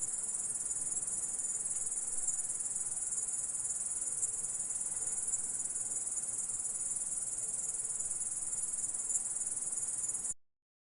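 Grasshopper stridulating: a continuous, high-pitched, dense buzzing trill with no breaks. It cuts off suddenly near the end.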